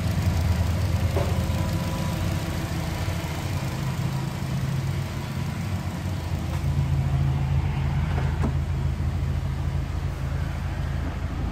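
Subaru Forester XT's turbocharged flat-four boxer engine idling steadily while it warms up on its first run after a turbo swap.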